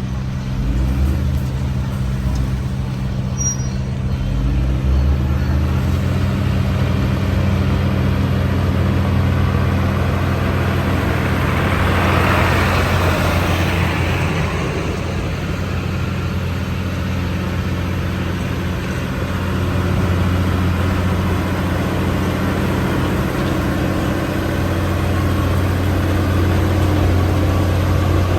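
Bulldozer's diesel engine running steadily at a constant pitch, with a brief noisy rush about halfway through.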